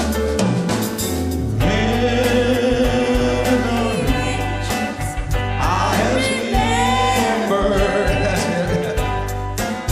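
Live band playing a slow country ballad between the lead singer's lines: drums, bass, keyboards and guitar, with held singing voices over them.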